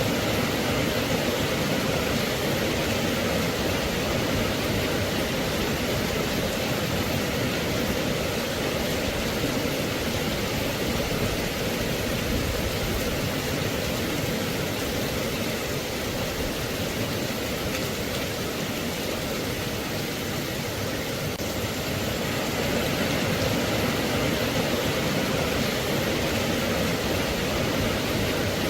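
Steady, continuous rain, an even hiss with no breaks, slightly louder from a little past two-thirds of the way in.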